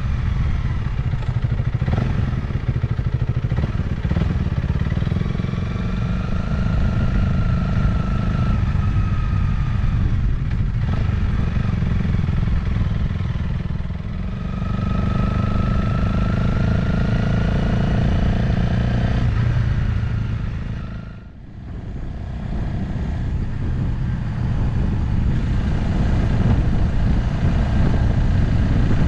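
Motorcycle riding at road speed: the engine runs steadily under heavy low wind rumble, its pitch drifting up and down with the throttle. The sound dips sharply for about a second roughly two-thirds of the way through, then comes back.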